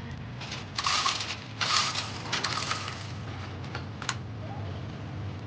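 Three short bursts of scraping and rattling in the first three seconds, then a sharp click about four seconds in, over a steady low hum.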